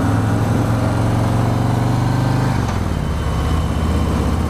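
Harley-Davidson V-twin motorcycle engine running at low speed while pulling away; its revs drop about two and a half seconds in and it runs on at a lower, steady beat.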